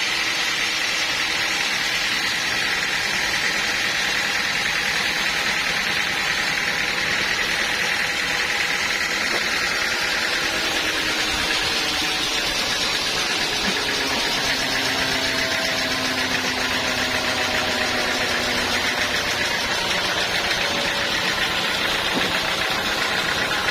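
A sawmill's engine running steadily under a dense, even hiss, its pitch drifting slowly up and down.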